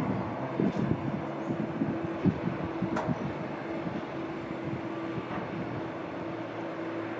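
Steady hum of a distant aircraft's engines, with gusts of wind rumbling on the microphone during the first few seconds and a single sharp click about three seconds in.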